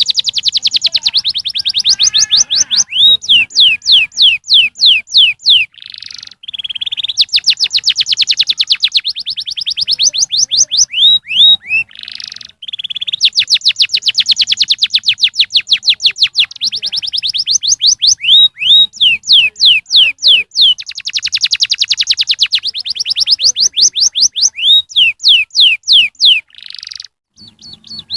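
Domestic canary singing: dense fast trills of rapidly repeated notes alternating with runs of slower falling whistled notes, in long phrases broken by brief pauses.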